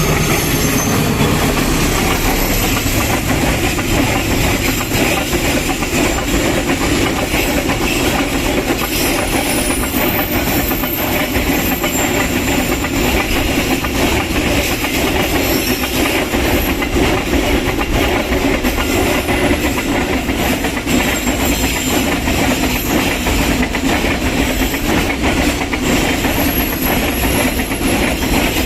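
Passenger train passing close by at a level crossing: the steady rumble and clatter of its carriages' wheels on the rails, with faint high wheel squeal at times. The tail of the horn fades out right at the start.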